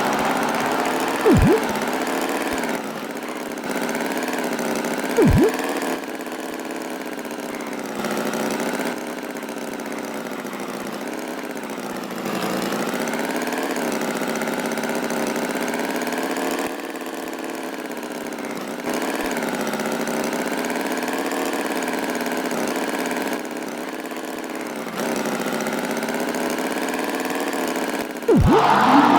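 Tractor engine running, its pitch wavering up and down, in stretches that step between louder and quieter. Three brief falling swoops cut in, two near the start and one near the end.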